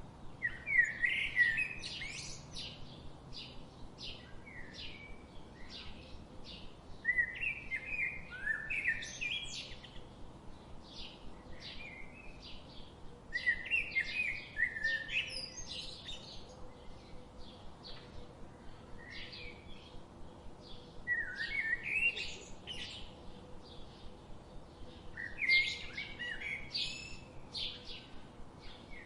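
Songbirds singing: a loud warbled song phrase repeats about every six to seven seconds, with many short chirps between the phrases.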